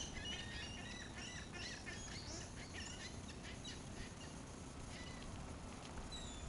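A flock of seagulls calling, many short overlapping calls at first that thin out after about three seconds, over a steady low rumble.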